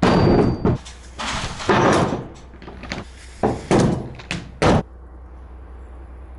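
A series of heavy wooden knocks and thuds, about six in the first five seconds, with a longer rough scraping clatter between the first two.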